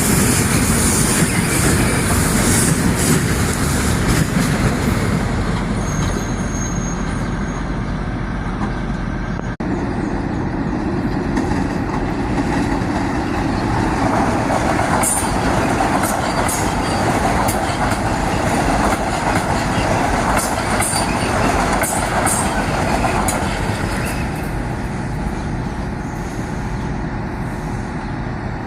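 Metro-North commuter train running by, a steady loud rumble of wheels on rail with short high squeals and clicks about halfway through. A sharp momentary dropout about ten seconds in.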